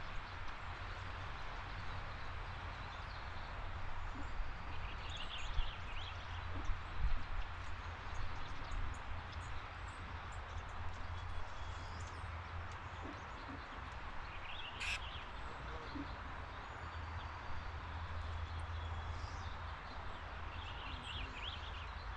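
A few short bird chirps, in about three brief clusters, over a steady background hiss and low hum.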